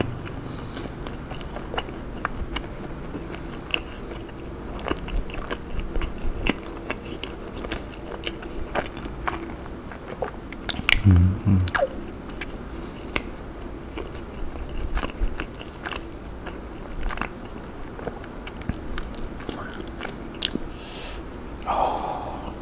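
Close-miked chewing of a mouthful of food with the lips closed: a steady stream of small, wet mouth clicks and smacks. A short low hum comes about halfway through.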